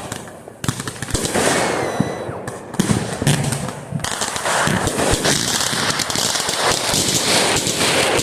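Fireworks going off: a few sharp bangs and a short rising whistle, then dense, rapid crackling from about four seconds in.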